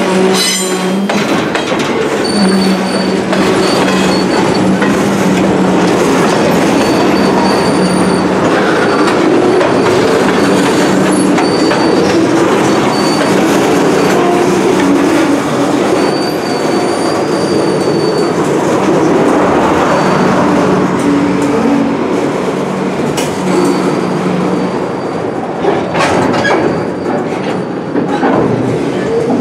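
Loaded freight flatcars rolling past on steel wheels: a steady loud rumble of wheels on rail, with high wheel squeal that comes and goes and a few sharp rail-joint clacks.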